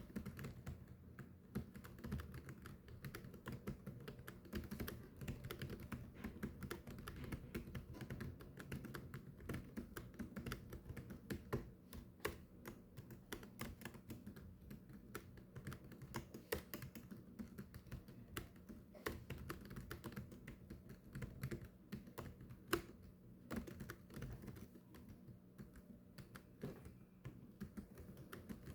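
Continuous fast typing on a keyboard: a dense, uneven run of key clicks, several a second, with a few harder strikes standing out.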